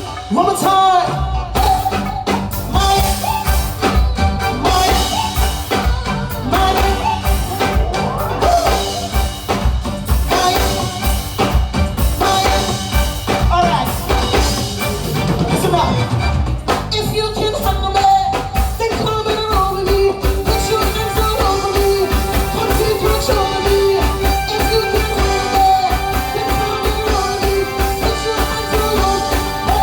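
Live soca music played loud over a sound system: a band with a steady, heavy beat and sustained melody lines, with no words sung clearly enough to transcribe.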